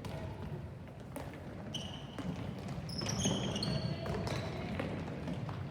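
Sneakers squeaking in short, high chirps of varying pitch, and a ball thumping on a hard court floor during play.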